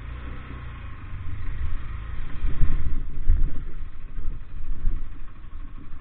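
Vehicle engine running, a low rumble that rises and falls in loudness.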